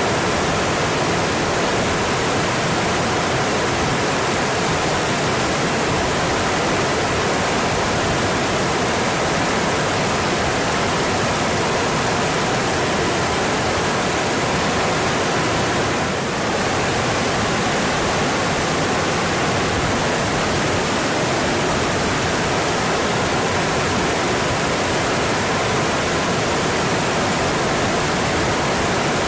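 Mountain stream water rushing steadily over rocks, an even, unbroken roar of flowing water, dipping slightly for a moment about sixteen seconds in.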